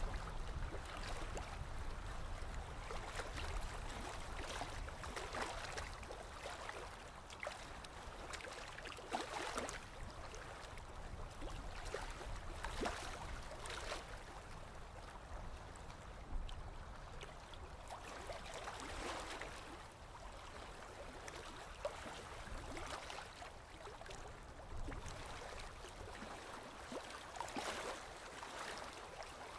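Sea water lapping and washing, a steady wash with small splashes every few seconds.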